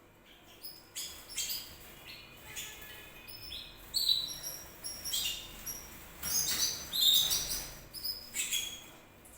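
Domestic canary singing: a string of high chirps and quick trills that starts about a second in and is loudest midway through.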